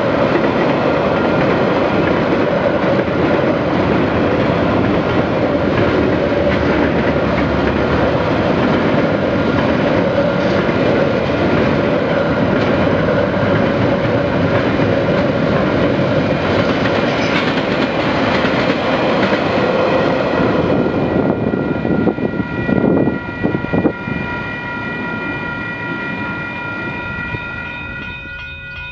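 Freight train's container and tank wagons rolling past: steady wheel-on-rail noise with clickety-clack over the rail joints, loud for about twenty seconds and then fading. Near the end a steady high tone begins.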